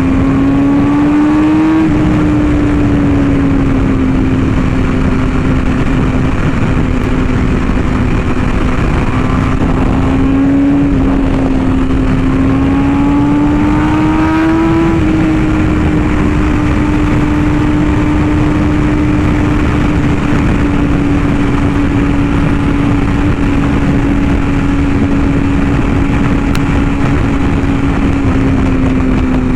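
BMW S1000RR's inline-four engine running at speed, its pitch rising briefly about a second in and again about halfway through as the throttle is opened, then holding steady, under constant wind rush.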